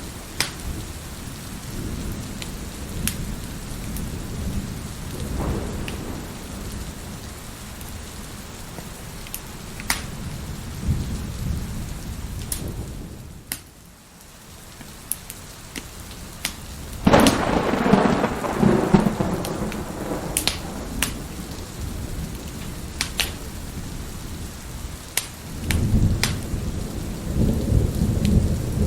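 Steady heavy rain with a fireplace's wood fire crackling and popping in sharp little snaps. Thunder breaks out suddenly about 17 seconds in and rumbles for several seconds, and another roll of thunder rumbles near the end.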